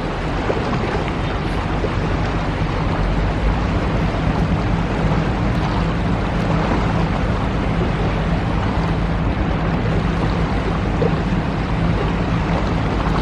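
Sea truck's diesel engine running with a steady low hum that firms up a few seconds in, over a constant rush of wind and water.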